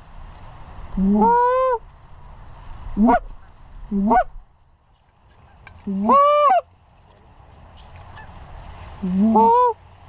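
Canada goose honks blown on a hunter's goose call. There are five loud two-note calls, each jumping from a low note to a higher one: three longer honks, about a second in, around six seconds and near the end, and two short clucks in between.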